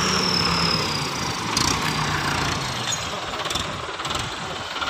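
Diesel engine running hard under load, its pitch sagging over the first two and a half seconds, with a high whine falling alongside it and a few light clicks.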